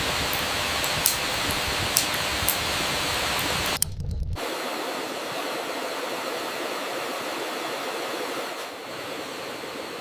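Steady rain hiss with the sharp crackles of a campfire over the first few seconds. After an abrupt cut about four seconds in, only a softer rain hiss remains, dropping slightly near the end.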